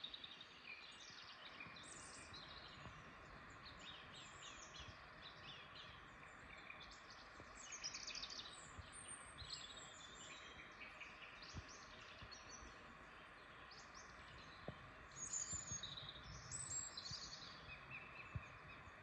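Several small birds singing and chirping in a forest, many short high-pitched calls and trills overlapping, busiest about eight seconds in and again near the end, over a faint steady hiss.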